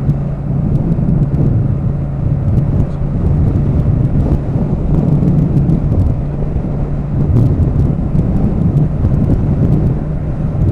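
Motorcycle engine holding a steady cruise at about 55 mph under cruise control, with wind rushing over the helmet-mounted microphone. Its low, even hum does not rise or fall, and faint scattered ticks come from the microphone.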